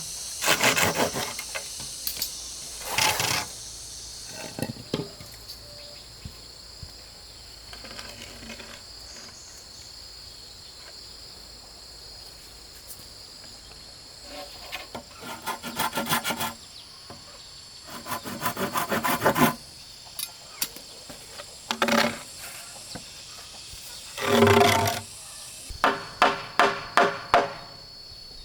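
Hand saw cutting wood in several short bouts of quick rasping strokes, with pauses between them. Near the end come a run of separate sharp knocks, and a steady high insect drone sits underneath throughout.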